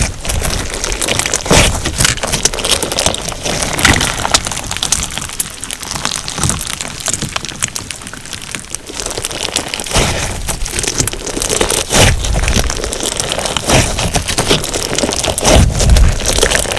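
Crunch slime packed with sugar beads being squeezed and pressed by hand, giving a dense, continuous run of crackling, popping crunches.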